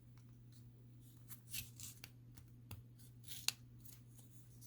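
Faint clicks and rustles of small die-cast toy parts being handled and fitted together, with one sharper click about three and a half seconds in.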